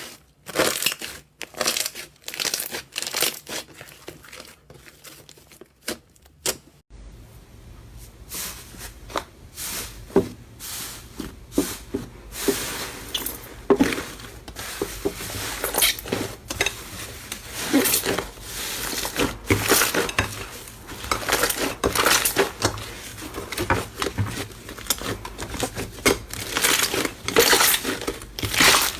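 Hands squeezing and kneading slime, making a dense run of irregular wet crackles, pops and clicks. A low steady hum joins about seven seconds in.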